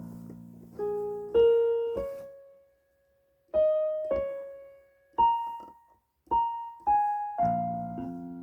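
Yamaha PSR-E373 portable keyboard on its concert grand piano voice, playing a slow melody: a held chord fades out, then single notes are struck one at a time in short phrases with brief pauses between them, and a fuller chord comes in near the end.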